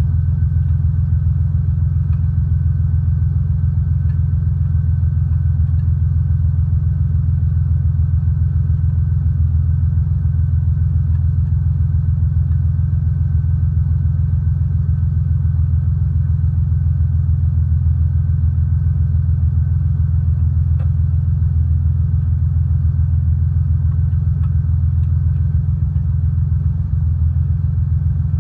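Yanmar YM146 garden tractor's diesel engine running steadily at an even speed, a continuous low rumble.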